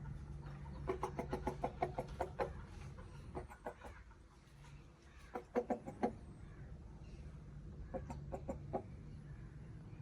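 A chicken clucking in several short bouts of quick, rapid clucks, over a steady low hum.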